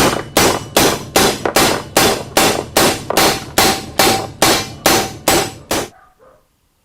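Hammer pounding a steel plate in a steady rhythm, about fifteen blows at roughly two and a half a second, the steel ringing faintly. The strikes stop near the end.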